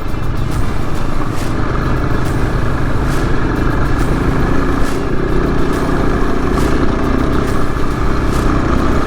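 Motorcycle running while being ridden, a steady rumble throughout.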